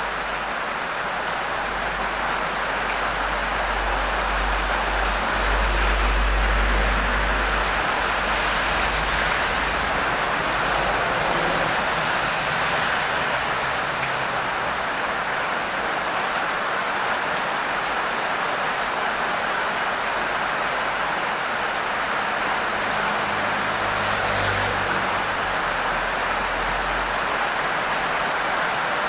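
Heavy rain falling in a steady downpour, with a low rumble that swells a few seconds in and again near the end.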